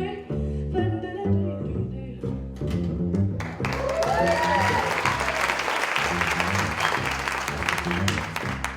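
Upright double bass playing a jazz line under a wordless vocal line, then audience applause with whoops breaking in about three and a half seconds in while the bass keeps playing.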